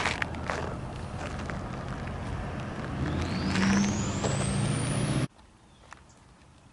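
Road traffic going by, with a vehicle accelerating whose whine rises steadily in pitch. The sound cuts off abruptly about five seconds in, leaving near quiet.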